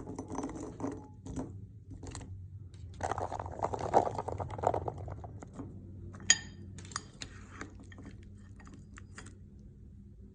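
Light clicks and clinks of a spoon in a bowl of fruit, ice and coconut water, mixed with crunchy chewing; one sharper ringing clink about six seconds in.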